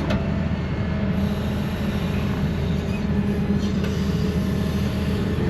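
Heavy machine engine running steadily, a low even hum with no change in pace.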